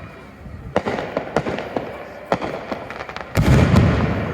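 Fireworks going off: a string of sharp, separate bangs from bursting shells. About three and a half seconds in comes a louder, denser burst with a deep rumble, which then fades.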